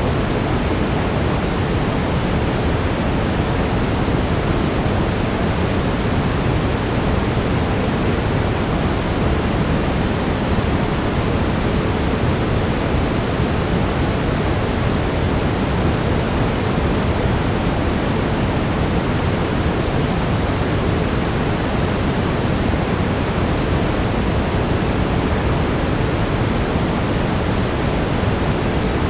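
Steady synthetic brown noise: an even, deep rushing hiss with no breaks or changes.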